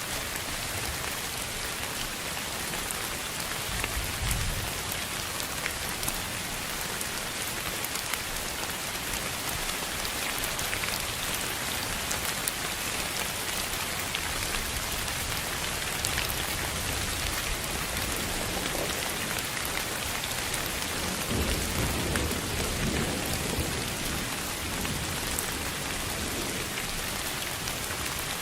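Steady rain falling on a surface: a constant even hiss scattered with fine drop ticks. Low rumbles of distant thunder come in a few seconds in and again, longer, past the two-thirds mark.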